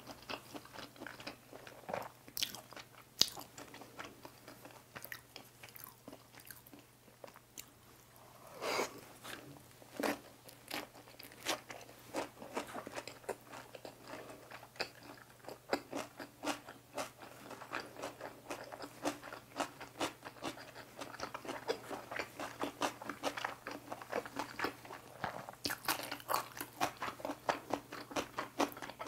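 A person chewing and crunching through mouthfuls of boiled pork, cucumber kimbap and seasoned dried radish close to the microphone, mukbang-style: a dense run of small crackly clicks, with louder bites about nine and ten seconds in.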